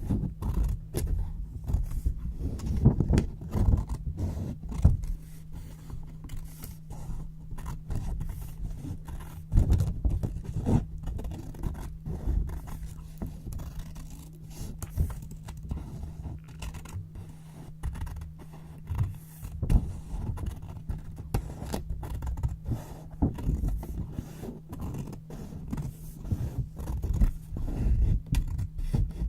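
Scissors cutting white paper in close-up: a quick, irregular run of crisp snips and papery scraping. A faint steady low hum lies underneath.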